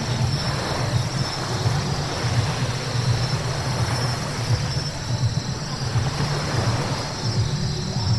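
Steady road noise of a car driving on wet pavement: a constant low rumble with tyre hiss over it.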